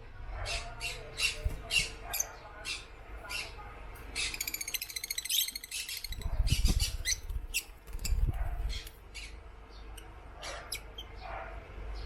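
African lovebirds chirping in short, sharp, high calls, with a fast chattering trill about four seconds in. Low rumbles come twice in the middle.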